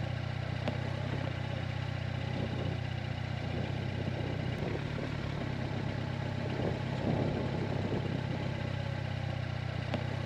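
Motorcycle engine running steadily at low revs, an even, unchanging hum.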